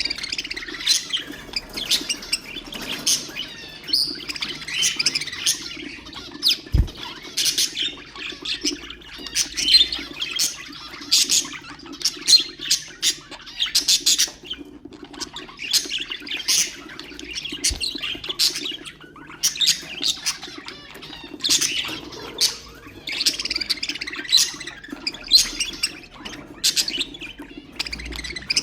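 Several budgerigars chattering and chirping continuously, with rapid warbles and sharp squawky calls, and a brief low thump about seven seconds in.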